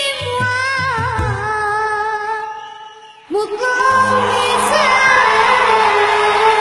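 A boy singing a long, ornamented Turkish arabesk note that fades out about two and a half seconds in. Just over a second later the band comes back in loudly, with the audience cheering and applauding over it.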